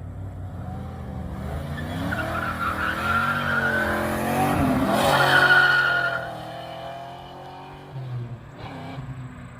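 A car engine revving hard as the car pulls away, with tires squealing twice. It is loudest about five and a half seconds in, then fades.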